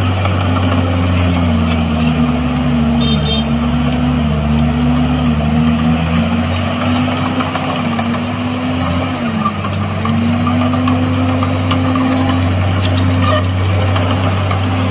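Heavy diesel engine of earth-moving machinery running steadily under load, its pitch dipping and recovering a few times as the revs change.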